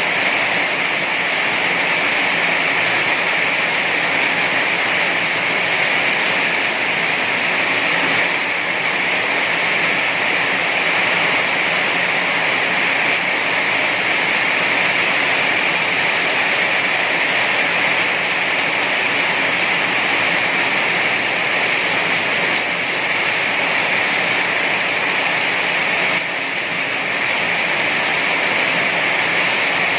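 Heavy rain falling in a steady, dense hiss with no let-up, loudness dipping only slightly twice.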